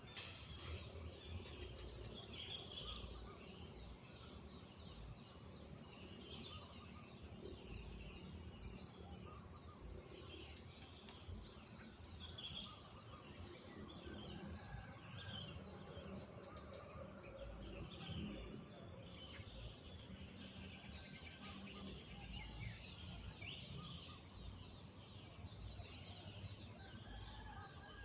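Village morning ambience: many birds chirping and calling in short, scattered phrases over a steady high hum of insects and a low background rumble.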